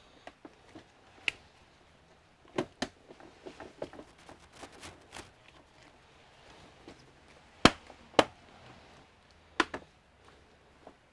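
Sharp clicks and knocks of plastic casing parts and small tools being handled while an all-in-one computer is put back together: a quick run of light taps, then three louder knocks near the end.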